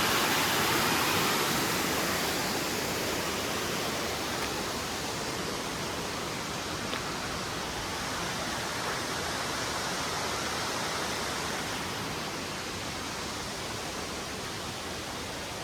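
Steady rush of flowing water, a small stream or cascade at a dam, growing gradually fainter.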